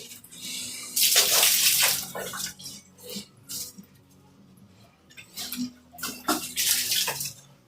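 Water splashing onto pigs in several rushes: the longest starts about a second in and lasts about a second, a few short splashes follow, and another run of rushes comes near the end.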